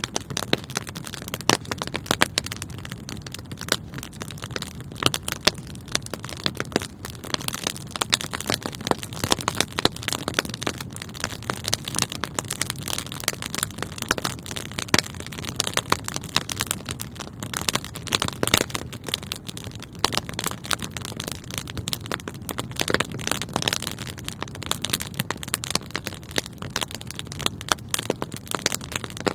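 Wood fire burning with dense, irregular crackles and sharp pops over a steady low rumble of flames.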